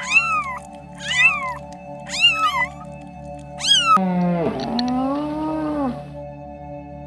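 Kittens meowing four times, short high mews that rise and fall, about a second apart. After that comes one long, lower moaning call from a moose, lasting about two seconds. A steady drone of background music runs underneath.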